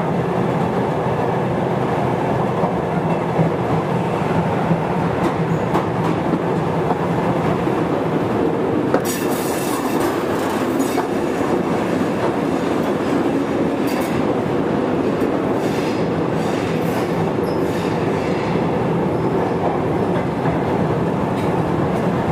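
Running sound heard inside a Sotetsu old 7000 series motor car (MoHa 7108, Hitachi GTO-VVVF inverter) as the train travels at speed. The wheels click over rail joints, and there is a brief hissing noise about nine seconds in.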